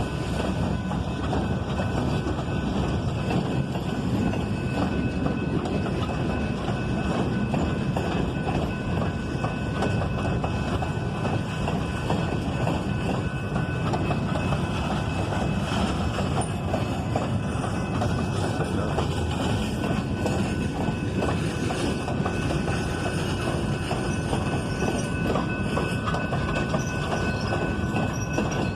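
A train's cars rolling steadily past on the rails, with a continuous clatter of wheels over the track and a faint steady high-pitched ring above it.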